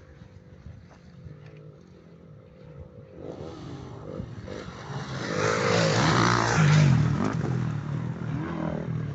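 Motocross bike engine revving and changing pitch as it comes in close, loudest about six to seven seconds in, then easing off as it moves away.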